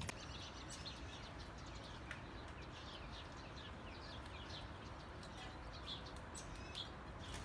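Small songbirds chirping, many short high notes dropping in pitch, several a second, over a steady low background rumble.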